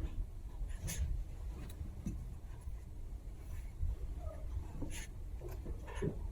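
Chihuahua puppies scuffling in play: irregular scratching and light scuffs, like small claws on a surface, over a low rumble.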